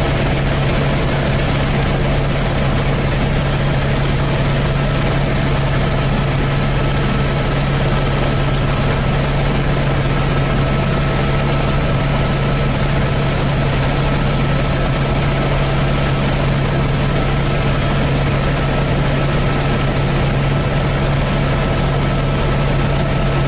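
Helicopter engine and rotor noise heard from inside the cabin in steady flight: an unbroken low drone with a constant thin whine above it.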